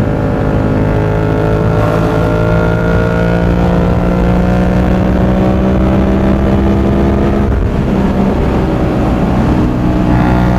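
Yamaha MT-07's CP2 parallel-twin engine running through an aftermarket exhaust under way, its note climbing slowly for several seconds. The note dips briefly about seven and a half seconds in, then holds steady.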